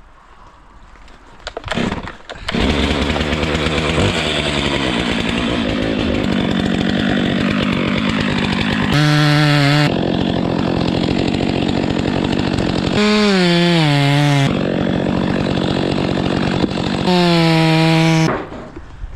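Chainsaw cutting through conifer wood, starting about two seconds in. Between cuts it revs up higher three times, and the middle rev sinks in pitch as the chain bites. It stops shortly before the end.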